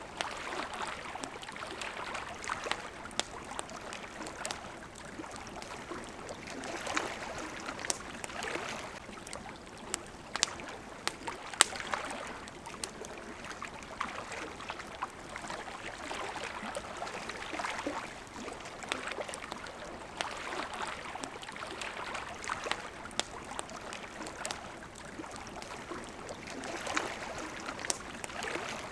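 Small waves lapping against a shore, swelling and easing every few seconds, with a crackling campfire giving frequent sharp pops and snaps.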